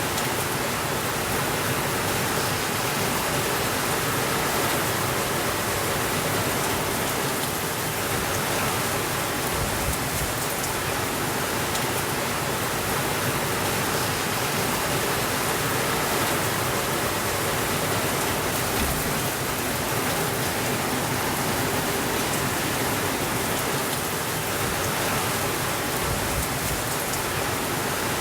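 Steady rainfall, an even hiss of rain that neither rises nor falls.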